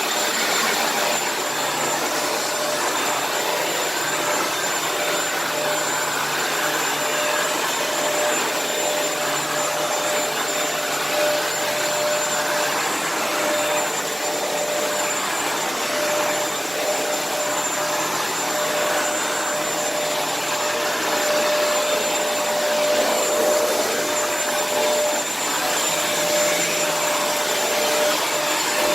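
Kenmore vacuum cleaner running steadily: a constant rush of air with a fixed whine from the motor, and small rises and falls in level as it is pushed around.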